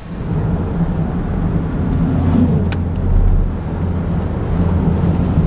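A car driving, with the steady low rumble of engine and road noise.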